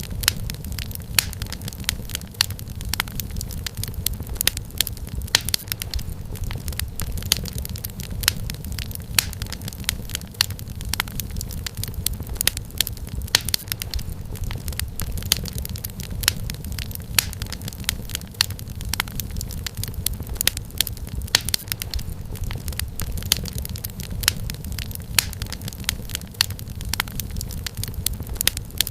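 Wood fire in a fireplace crackling, with dense irregular pops and snaps over a low steady rumble of flame.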